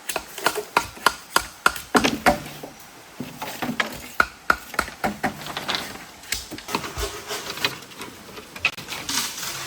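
Bamboo being chopped: a quick run of sharp wooden knocks, about three a second, then slower and uneven strikes through the rest.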